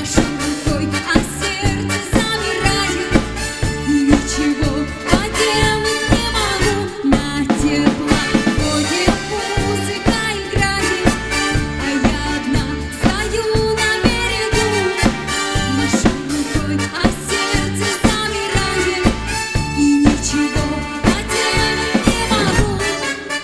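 Live band playing a song, with drum kit and bass on a steady, even beat under a melody line.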